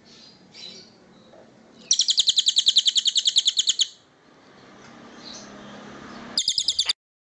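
Recorded bird call: a rapid trill of sharp, high notes, about eleven a second, lasting about two seconds. After a quieter stretch of faint background noise, a short burst of the same notes comes near the end and is cut off abruptly.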